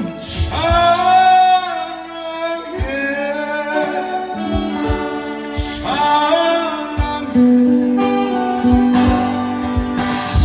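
A solo voice sings a slow Korean ballad in long held phrases over instrumental accompaniment with a steady low drum beat.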